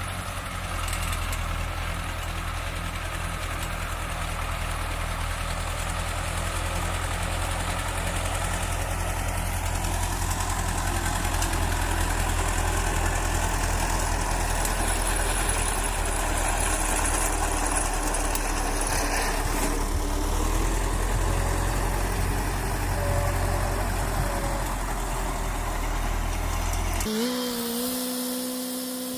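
Tractor engine running steadily while mowing with a tractor mower. Near the end it cuts off suddenly and a quieter steady hum takes over.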